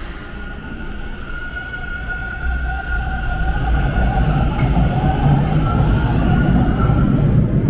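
TTC Line 2 subway train at the station platform: a steady high-pitched whine over a low rumble that grows louder from about two and a half seconds in.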